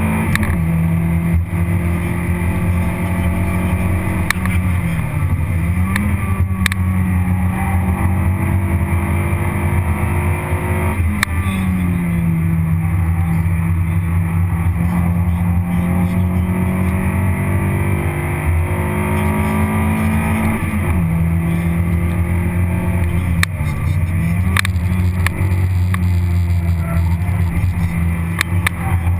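Toyota Vitz RS race car's four-cylinder engine running hard, heard from inside the cabin. Its pitch holds steady for stretches and dips and steps several times, around 5, 11, 21 and 24 seconds in.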